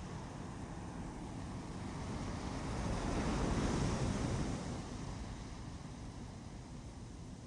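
Ocean surf: a wave builds and breaks about three to four seconds in, then washes back and fades.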